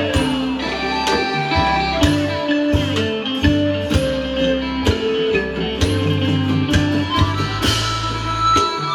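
Isan pong lang ensemble playing live instrumental folk music: melody notes over a bass line, with a steady drum beat.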